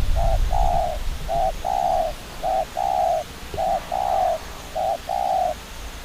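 A dove cooing: five two-part coos, each a short note followed by a longer one, about one coo a second. A low rumble is heard in the first second.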